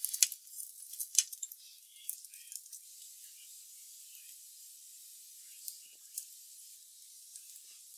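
Breaded cutlets frying on a flat griddle plate: a soft, steady sizzle with small crackles and pops. There are two sharp clicks within the first second or so as metal tongs handle the cutlets.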